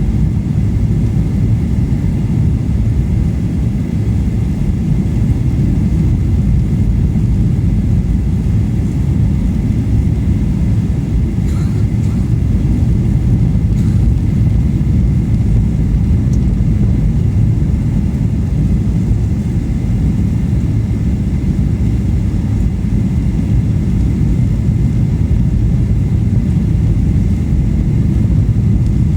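Airliner cabin noise heard from a passenger seat: a steady low rumble of engines and airflow, with a few faint ticks about halfway through.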